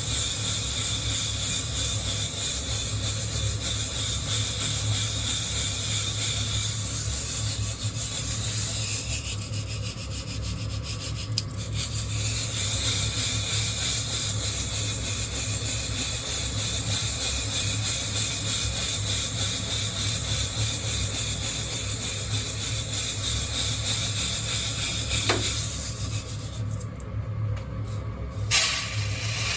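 Coffee beans being shaken in a hand-held wire mesh roaster, rattling and rubbing against the mesh, with a steady low hum underneath. The shaking eases off near the end.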